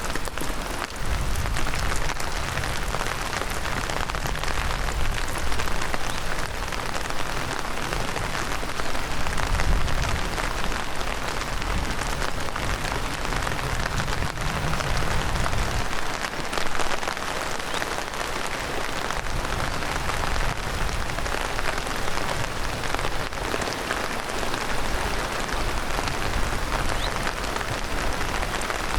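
Heavy downpour, rain falling steadily as an even hiss, with a low rumble under it through roughly the first half.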